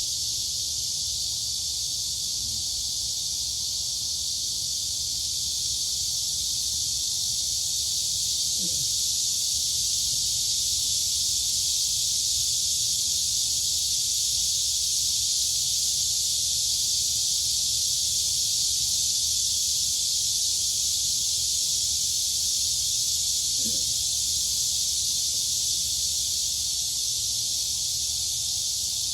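Dense, continuous chorus of crickets and cicadas: a steady high-pitched shrill with no pauses, swelling slightly through the middle.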